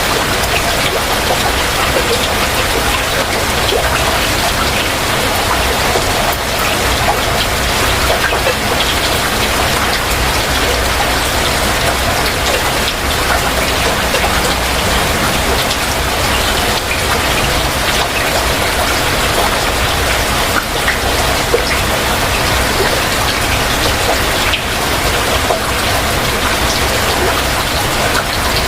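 Heavy rain falling steadily, a dense hiss with many close drops pattering on surfaces.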